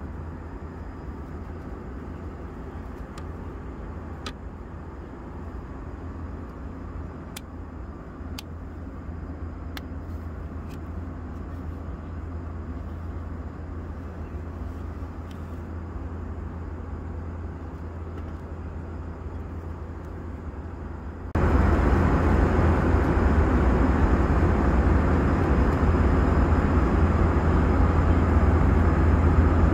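Steady cabin noise of an Airbus A321 in cruise: the hum of its IAE V2500 jet engines and the rush of air past the fuselage, with a few faint clicks in the first ten seconds. About 21 seconds in, the noise jumps abruptly louder and stays at the higher level.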